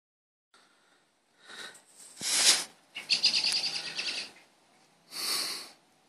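A bird calling in four short bursts, the longest a rapid chattering run of notes lasting about a second.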